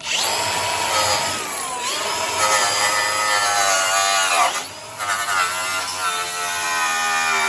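Electric drill running hard as it scrubs at an oil stain on the engine. Its whine sags in pitch as it is pressed in, cuts out for a moment about four and a half seconds in, then starts again.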